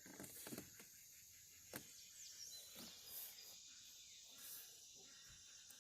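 Near silence: faint background with a few small clicks and knocks, the clearest a little under two seconds in.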